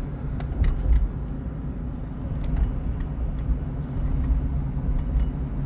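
A truck driving on the road, heard from inside the cabin: a steady low rumble of road and engine noise, with light jangling clicks scattered through it.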